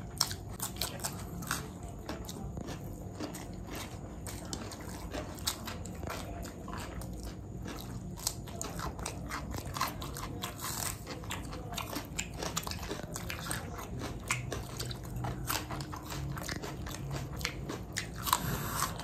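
A person chewing and crunching food close to the microphone, with many short, crisp bite and mouth sounds at an uneven pace.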